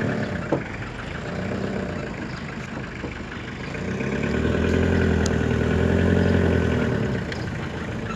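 A motor vehicle engine running. It grows louder from about halfway through, its pitch rising and then falling again before it settles back near the end.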